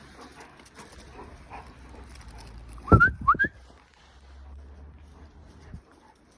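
German shepherds at play: a sharp knock about three seconds in, followed at once by two short, rising high-pitched yelps from a dog.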